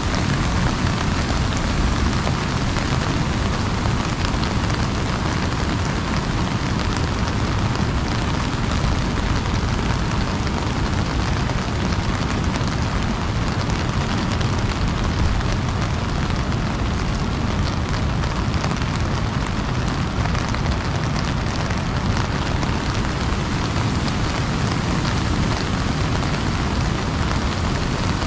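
Heavy rain pattering on an umbrella overhead, a steady dense patter of drops that does not let up.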